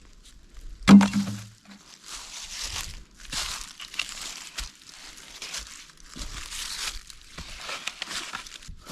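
Dry plant material rustling and crunching in repeated bursts as it is handled, with one sharp knock that rings briefly about a second in.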